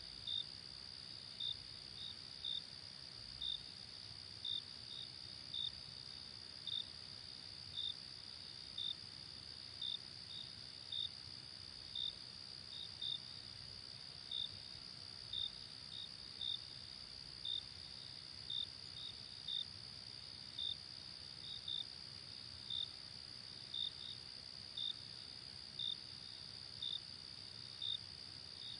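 Night insects, crickets: a steady high-pitched continuous trill with short chirps repeating about once a second, some coming in quick pairs.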